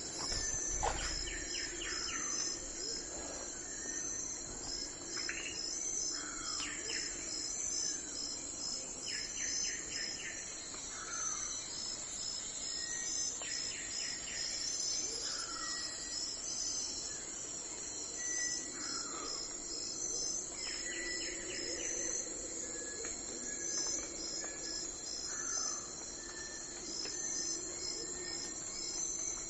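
Dawn nature ambience: a steady, high-pitched insect chorus with regular pulsing chirps, over which birds call with short sliding chirps and quick trills every second or two.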